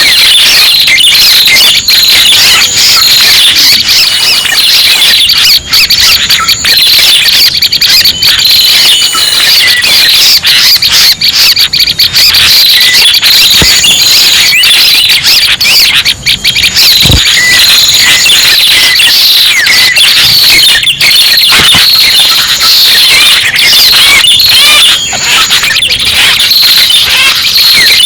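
Prenjak pala merah birdsong: loud, unbroken high-pitched chirping and squeaky calls, many overlapping, kept up without a pause.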